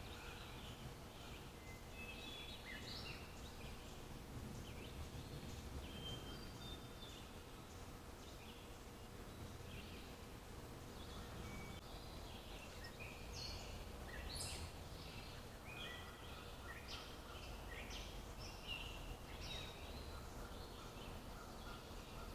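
Wild birds chirping and calling, many short high notes scattered throughout, over a low steady outdoor rumble.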